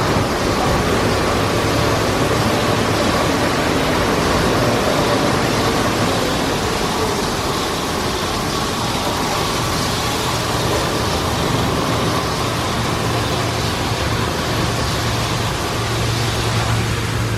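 PDQ ProTouch Tandem automatic car wash running: a loud, steady rush of air or water with a low hum and a faint whine.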